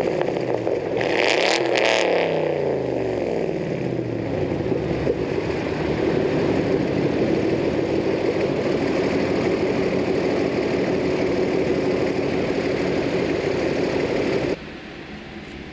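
2008 Mustang Bullitt's 4.6-litre V8 through a muffler-delete axle-back exhaust: revved once about a second in and falling back, then running steadily. The sound drops off abruptly near the end.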